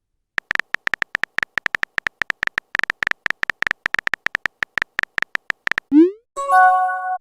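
Messenger typing sound effect: a fast, uneven run of short identical electronic key ticks, then about six seconds in a quick rising swoop and a short chime of several tones, a message-sent or message-received alert.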